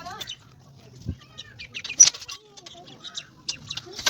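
Scattered short bird chirps and clucks from a flock of chickens and other birds, with one sharp, louder chirp about two seconds in.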